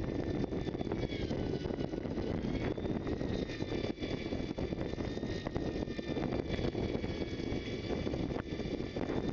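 Steady rumble of a fishing boat's engine under way, mixed with wind and sea noise, with faint high whines that waver in pitch.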